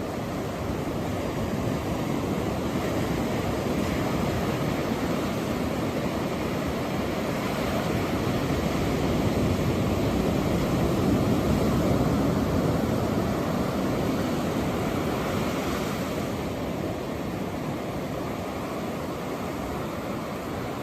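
Ocean surf washing onto the beach, a steady rush that swells to a peak about halfway through and then eases off.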